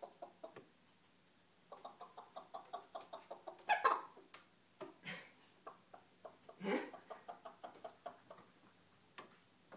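Bantam cockerel making runs of soft, quick clucks, about seven a second, broken by two louder sharp calls about four and seven seconds in.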